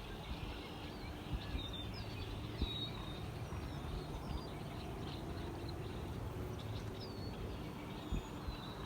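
Birds chirping: scattered short, high calls over a steady low rumble of outdoor background noise.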